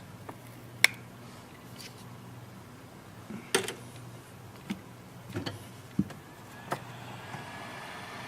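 Sharp clicks and taps of small tools and tablet parts being handled during a screen repair, about six of them spread irregularly, over a low steady hum. A steady hiss comes in near the end.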